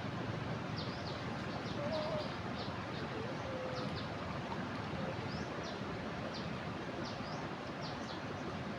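Steady rush of a flooded river pouring over a weir, with short high bird chirps repeating irregularly through it.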